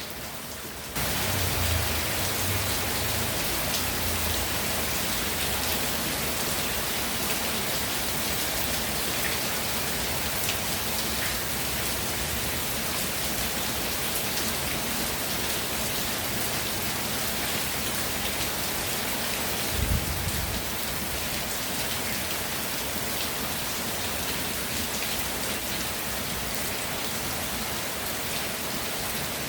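Steady, heavy rain falling as an even hiss of drops; it turns suddenly louder about a second in. A brief low thump sounds about twenty seconds in.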